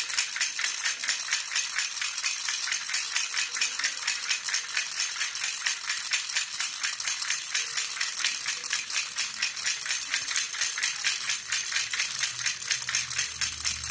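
Jhunjhuna (Indian baby rattle) being shaken steadily, making a quick, even run of jingling rattles.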